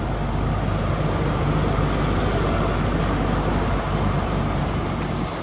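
High-speed train led by a Class 43 diesel power car arriving at the platform: steady diesel engine drone with wheel and rail noise, swelling slightly about a second in and easing near the end as it slows.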